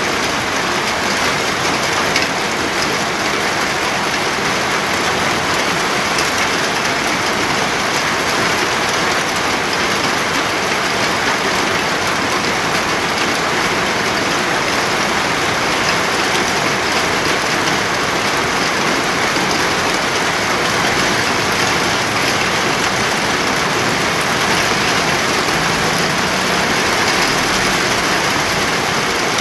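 Steady heavy rain falling, an even dense hiss of drops without let-up.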